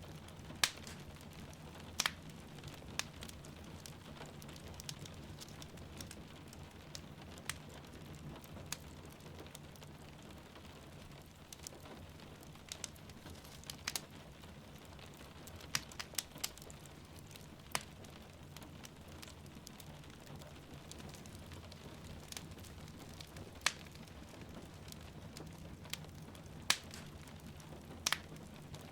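Wood fire crackling in a fireplace, with irregular sharp pops and snaps over a soft steady rain.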